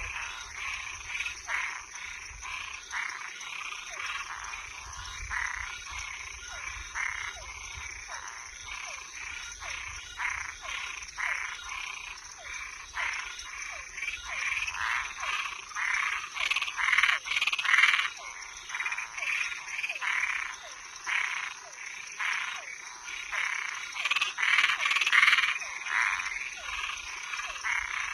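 Chorus of frogs and tree frogs calling, many short overlapping calls several a second, growing louder and denser in the second half, with regularly repeated small falling chirps underneath. A steady high-pitched hum runs beneath the chorus.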